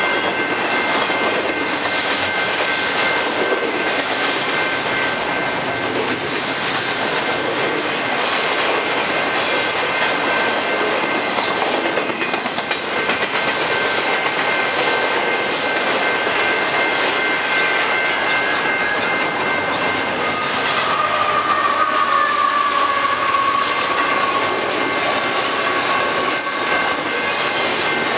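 Double-stack intermodal well cars of a freight train rolling past: a steady loud rumble of steel wheels on rail with light clatter and a thin steady squeal. From about 20 seconds in, a louder wheel squeal sounds for a few seconds, slowly falling in pitch.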